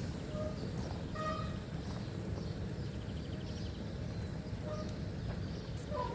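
Steady wind and road rumble on the microphone of a bicycle being ridden, with a few faint, short high chirps scattered through it.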